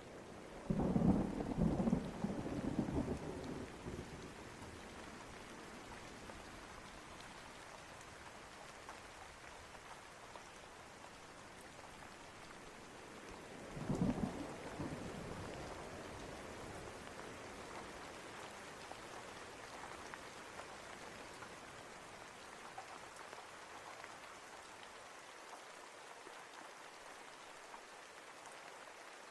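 Steady rain with two rolls of thunder: a longer, uneven rumble starting about a second in and lasting some three seconds, and a shorter crack about halfway through that fades over a couple of seconds.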